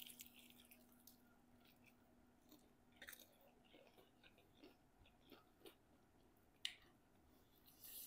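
Faint chewing with scattered small crunches and wet mouth clicks of people eating.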